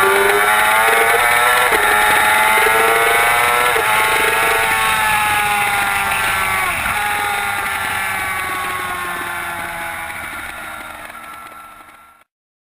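2007 Yamaha YZF-R6's inline-four engine running at high revs, its pitch climbing and dropping sharply at upshifts about 2 and 4 seconds in. The revs then ease off slowly and the sound fades out, cutting off just before the end.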